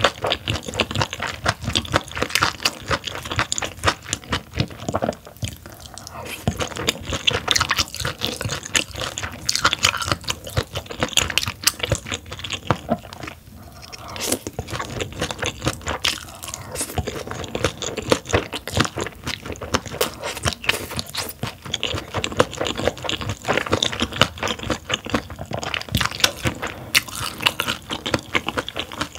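Close-miked chewing and biting of steamed yellow stingray, with many crisp crunches from its soft cartilage. A brief lull comes about halfway through, just before a fresh mouthful.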